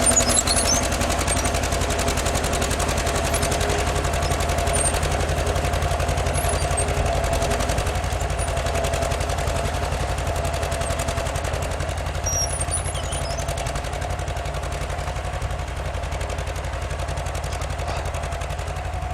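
1948 John Deere B's two-cylinder engine working hard under heavy load, pulling a two-bottom plow deep through wet clay in second gear, its exhaust a rapid, steady stream of pops. The sound gradually fades.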